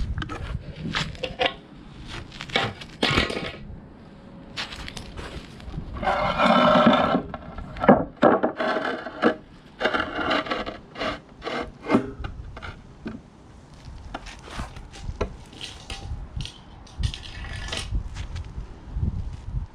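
Hand tools knocking and scraping on the concrete base of a patio, with many short sharp knocks and a longer scrape about six seconds in.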